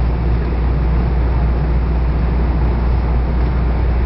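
Steady low rumble of a locomotive-hauled passenger coach running along the track, heard from inside the car.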